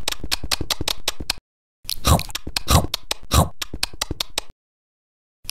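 Close-up mukbang eating sounds: quick crunching and chewing, a fast run of crisp bites that stops briefly, resumes with a few heavier wet smacks, and breaks off about four and a half seconds in, with a short burst near the end.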